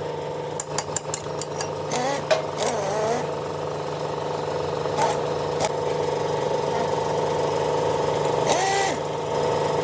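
A diesel engine running at a steady speed, with an even hum. A few clicks sound near the start, and voices come in briefly.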